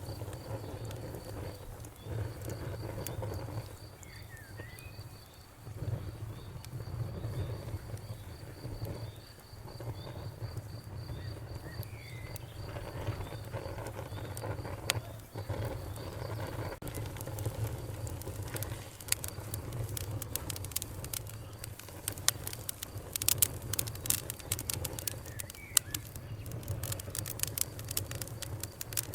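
Open fire crackling, with sharp pops over a low steady rumble. The pops grow denser and louder in the second half. A few faint bird chirps come through, and a faint high ticking repeats about twice a second through the first half.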